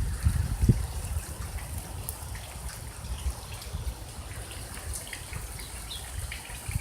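Flood water trickling and splashing, with scattered drips, over a low rumble that is loudest in the first second.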